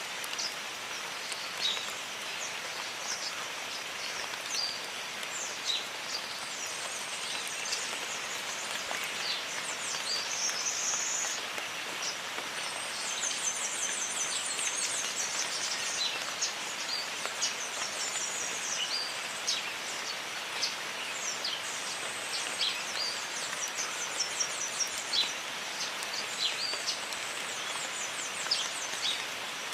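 Steady rain falling in a jungle, with many birds calling over it in short high chirps and whistles, and a fast trilling run of repeated notes about a third of the way through.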